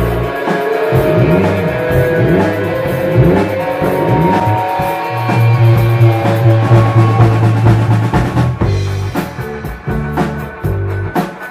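Live rock band playing an instrumental passage: bass, guitar and drums, with sliding low notes and a long held bass note, then a steady run of drum hits near the end.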